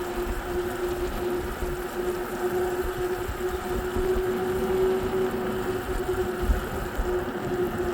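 A vehicle running steadily on the move, with a constant whine from its motor, while wind buffets the microphone in irregular low rumbles.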